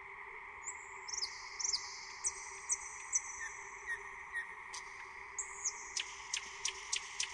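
Small birds chirping: a run of high, thin notes about two a second, coming quicker near the end, over a faint steady hum.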